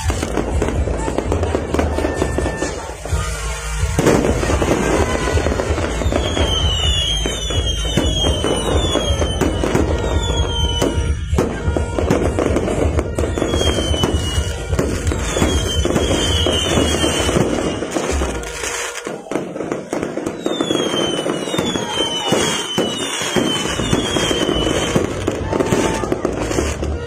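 New Year fireworks display: a dense, continuous crackling of bursting fireworks, with many short whistles falling in pitch from about six seconds in.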